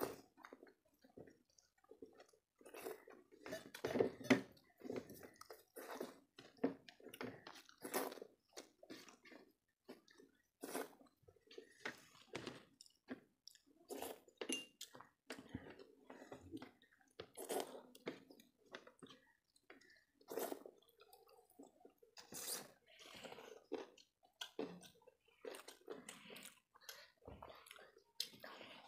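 Close-up eating sounds of people eating rice and curry by hand: irregular chewing and mouth sounds, with soft sounds of fingers mixing food on the plates.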